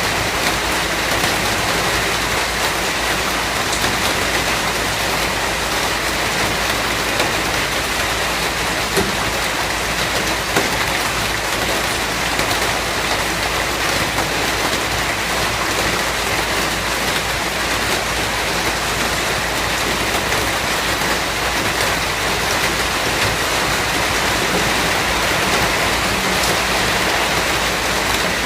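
Steady rain falling: an even hiss, with the odd louder drop now and then.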